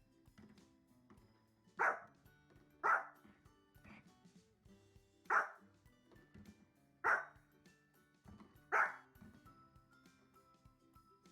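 A dog barking single short, sharp barks, five in all, spaced one to two and a half seconds apart, over faint background music.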